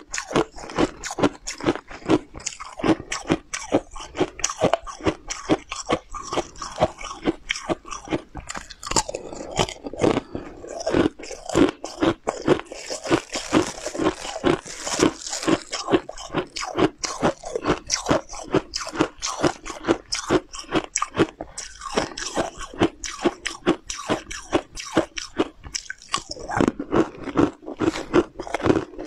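A person biting and chewing crunchy snack pieces close to the microphone: a rapid, continuous run of crisp crunches, thinning briefly about two-thirds of the way through.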